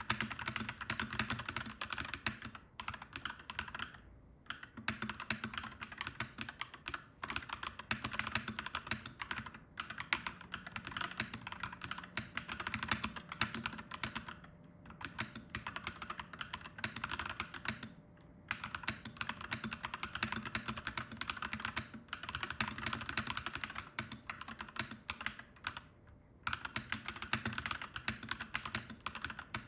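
Clacky mechanical keyboard being typed on in a steady, fast stream of keystrokes, with a few brief pauses of under a second.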